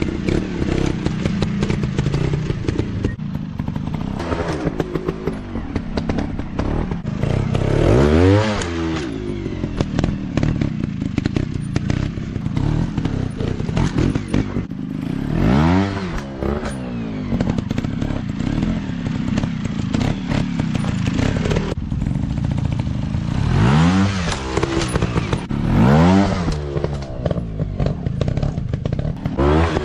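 Off-road dirt bike engines running, revving up and falling back several times as the bikes ride over rough ground, with some knocking and clatter.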